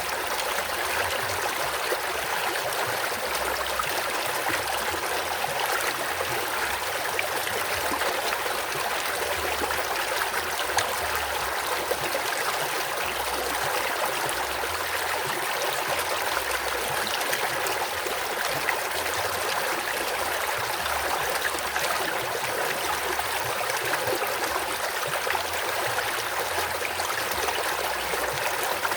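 Fast-flowing river rushing steadily, an even unbroken wash of water noise.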